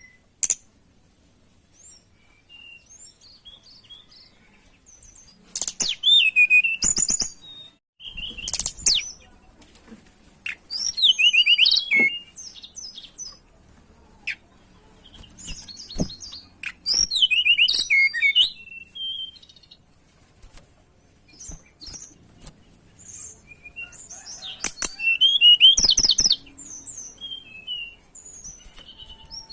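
Tledekan gunung songbird singing in separate bursts of quick, high-pitched warbling phrases with short pauses between them, the loudest near the end. The bird-keeper's lure song that is played to get other birds singing.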